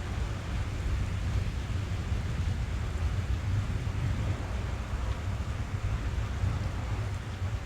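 Steady rain on a car's roof and windows, heard from inside the cabin as an even hiss over a low rumble.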